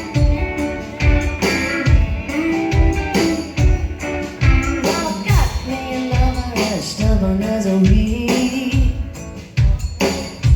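Live band playing a slow blues-rock song, with a steady drum beat and singing over it.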